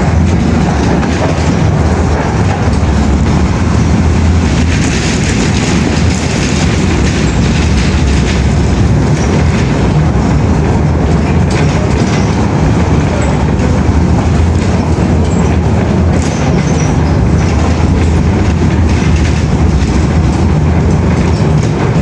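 Loud, steady rumble of a moving vehicle.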